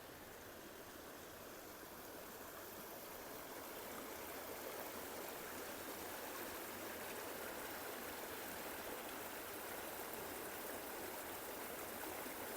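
Steady rush of running water, growing a little louder a few seconds in.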